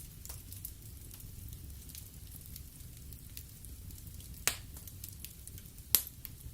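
Wood fire crackling in a fireplace: a steady run of small crackles over a low rumble, with two sharp pops, one about four and a half seconds in and a louder one near the end.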